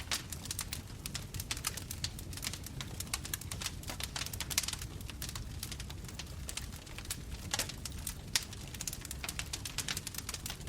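Bonfire burning, with many quick irregular crackles and pops from the flames over a steady low rumble.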